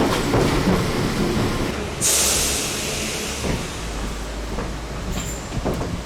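A train running at the station, its steady rumble joined about two seconds in by a sudden loud hiss that fades away, with a few light knocks toward the end.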